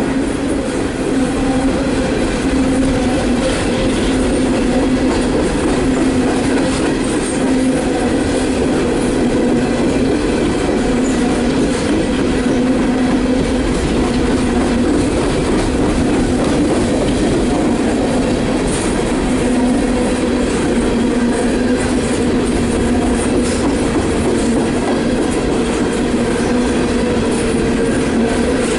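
Empty coal train's hopper cars rolling steadily past on the rails, a continuous loud rumble with a steady hum from the wheels running over the track.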